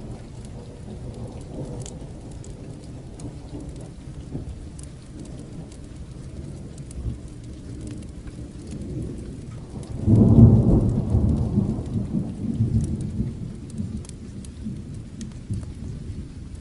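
Steady rain with a low rumble of distant thunder. About ten seconds in, a louder roll of thunder breaks and dies away over several seconds.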